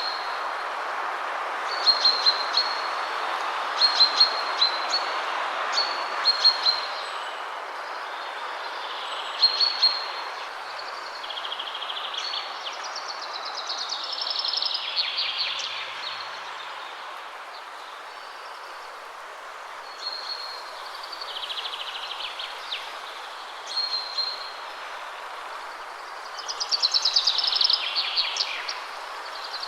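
Steady wind rushing through trees, with songbirds singing over it. Short high chirping phrases repeat every couple of seconds, and two longer songs fall in pitch, one midway and one near the end.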